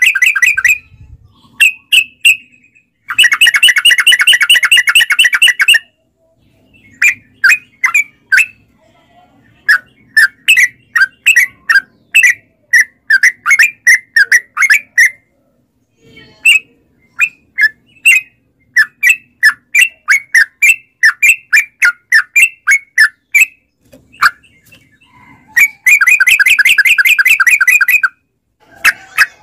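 Yellow-vented bulbul (trucukan) singing: long, rapid chattering trills of about three seconds near the start and near the end, with runs of short, separate notes at about three to four a second in between.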